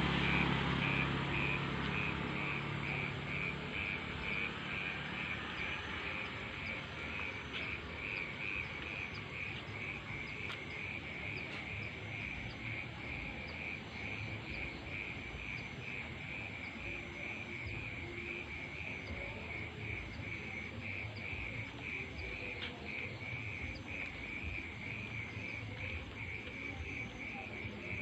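A cricket chirping steadily in even pulses, about two to three a second, over a faint background hush. A passing vehicle fades away over the first few seconds.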